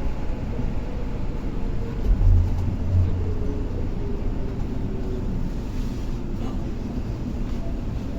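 Electric commuter train running, with a steady rumble. There is a heavier low surge about two seconds in and a faint whine that slowly falls in pitch.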